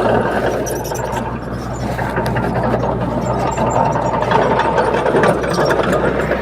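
Komatsu D21P crawler bulldozer's diesel engine running steadily, with scattered clanks and clatter over the engine noise.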